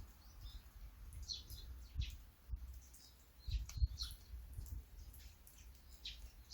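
Small birds chirping in short, repeated high calls over light rain, with an uneven low rumble underneath that is strongest a little past the middle.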